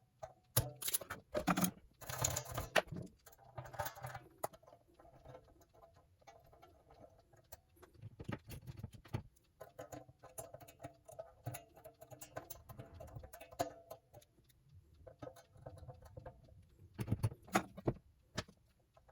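Clicks, clinks and knocks of hands working on an electric guitar's hardware, with a cluster of sharper knocks near the start and again near the end.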